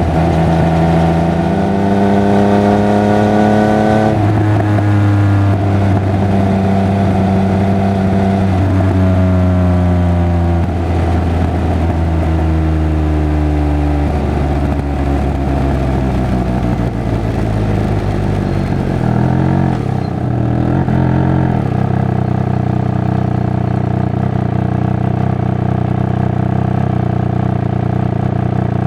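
Triumph Speed Triple 1200 RR's three-cylinder engine and exhaust pulling up through the gears, the revs climbing and dropping at each of three shifts. It then slows, blips a couple of times about twenty seconds in, and settles to a steady low beat.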